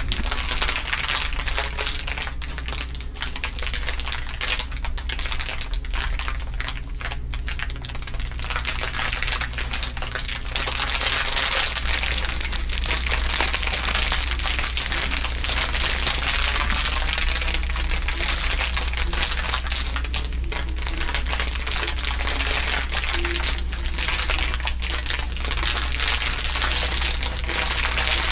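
Dense, continuous crinkling, several layers of crinkles overlapping with a wavering, processed quality, over a steady low hum.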